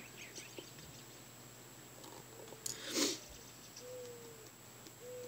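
Faint low hooting calls from a bird, two in the last second and a half, each a single tone falling slightly in pitch. A short rustle about three seconds in is the loudest sound.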